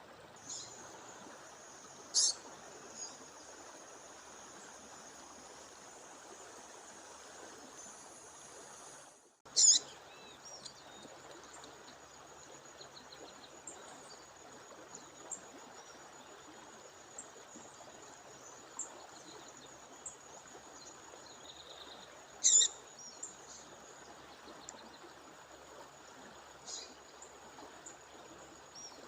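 Female songbird giving short, sharp high call notes over a steadily running waterfall stream; the loudest calls come about two, ten and twenty-two seconds in, with fainter chips between. A thin, steady high tone runs behind them, and the sound drops out briefly just before the second loud call.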